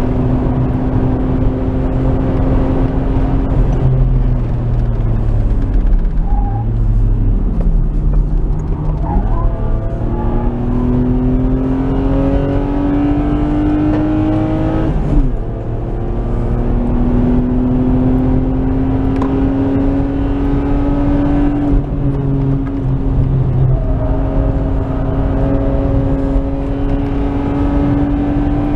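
Nissan Skyline R33's RB20E 2.0-litre SOHC straight-six, heard from inside the car while lapping a race track. The engine note holds steady, drops and wavers about five to eight seconds in, then climbs steadily under acceleration; a brief break about fifteen seconds in, a gear change, is followed by the revs climbing again.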